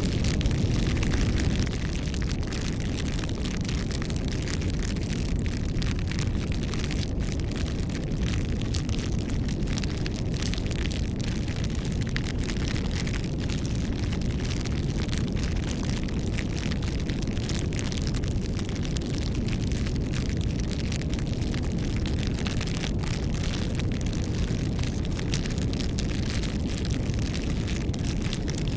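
Bonfire burning: a steady low rumble of flames with frequent small crackles and pops from the burning wood. The level drops slightly about two seconds in.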